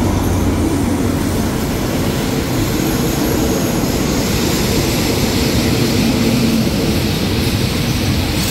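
Passenger train leaving the station. The diesel locomotive's engine drone passes and fades in the first second, then the coaches roll past at low speed with a steady rumble of wheels on rail.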